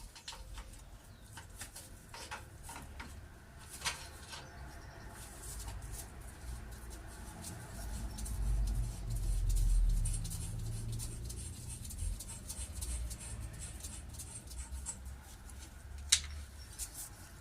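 Spanner working the manifold nuts on a side-valve engine: scattered light metal clicks and scrapes, with one sharp click near the end. A low rumble swells in the middle.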